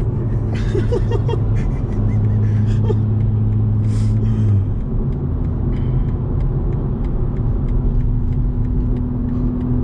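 Inside the cabin of a BMW G80 M3 at speed: the engine drones steadily over road and wind noise. About halfway through the engine note breaks off briefly, then comes back at a higher pitch and rises slowly.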